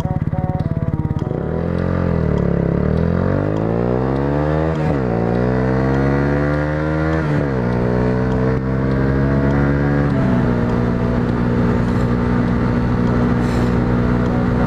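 Yamaha YZF-R125's single-cylinder 125 cc four-stroke engine idling briefly, then pulling away and accelerating hard. Its pitch climbs and drops with upshifts about five and seven seconds in, then settles into a steady cruise after another small step down around ten seconds in.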